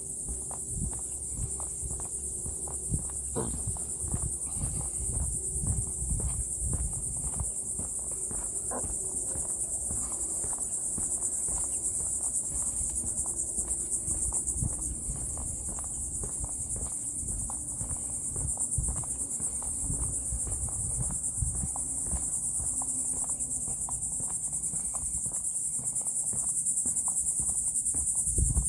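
Steady high-pitched chorus of insects such as crickets or katydids, unbroken throughout. Beneath it are low, uneven knocks of footsteps on a wooden boardwalk.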